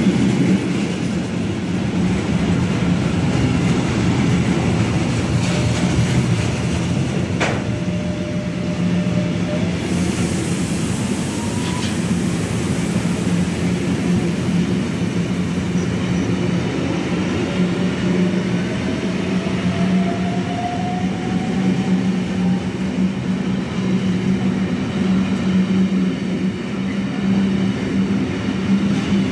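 Intermodal freight train of container and lorry-trailer wagons rolling past close by at speed: a loud, steady rumble of wheels on rail that runs without a break. A single sharp click comes about seven seconds in, and faint rising whines sound through the middle.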